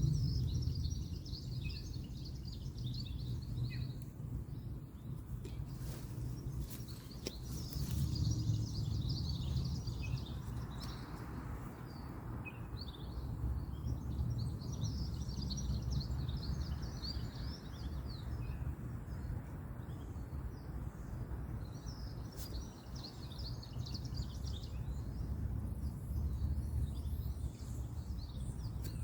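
Woodland ambience: many small birds chirping busily over a steady low rumble of distant road traffic, with a few light clicks about six to eight seconds in.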